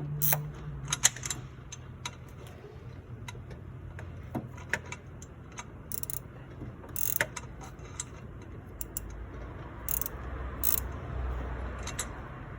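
Hand tool working a 10 mm bolt on a shifter cable bracket: scattered ratchet clicks and metal clinks, a few louder ones, over a steady low hum.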